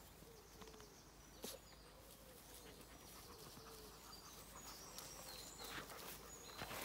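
Faint rural outdoor ambience with distant small birds chirping now and then, and one soft click about a second and a half in.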